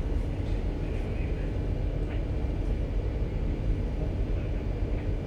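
Steady low rumble on board a ship under manoeuvre, with a faint steady hum from its machinery.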